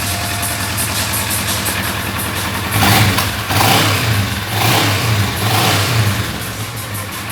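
Kawasaki ER-6n's parallel-twin engine idling through its exhaust, blipped up in about four quick revs from about three seconds in and then settling back to idle. It runs without engine noise after a rebuild with a new crankshaft and bearings.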